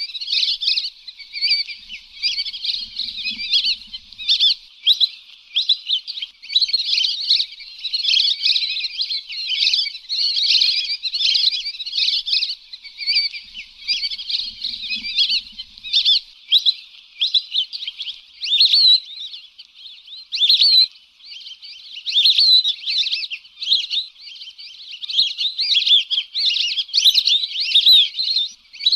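A flock of lesser whistling ducks giving many overlapping high, whistled calls in a continuous chatter: a recorded lure call for the species.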